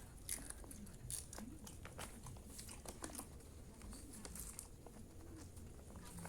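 Close-up eating sounds: chewing and crunching, with scattered small clicks and knocks.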